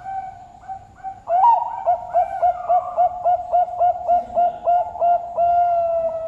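Zebra dove (perkutut) cooing its song: a few soft opening notes, then a quick run of about a dozen short coos at roughly three a second, ending in one long drawn-out note.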